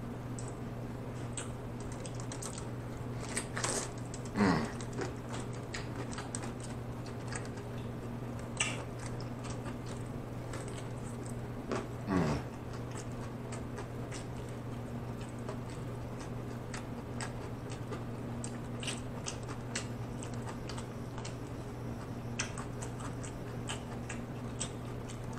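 Close-miked chewing of crunchy cooked broccoli florets: many small crisp crackles, with a few louder crunches, over a steady low hum.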